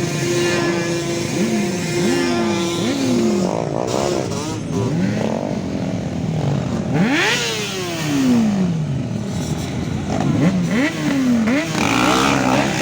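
Yamaha Banshee 350's two-stroke twin engine revved in repeated short blips, with one longer, higher rev about seven seconds in. A steady engine drone underneath stops a few seconds in.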